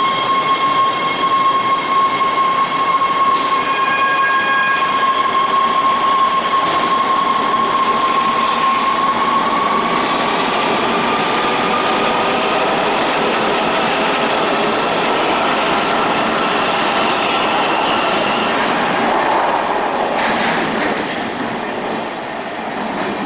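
Los Angeles Metro light-rail train running, with a steady high-pitched whine that holds level and then rises slightly in pitch about halfway through, over the rumble of the wheels on the rails and a few sharp clicks. The sound eases off near the end.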